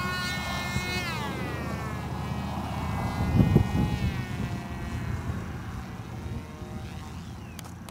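Small electric motor and propeller of an RC flying wing whining, its pitch dropping about a second in as the throttle is pulled back and then sinking slowly. Wind buffets the microphone throughout, loudest in a gust about three and a half seconds in.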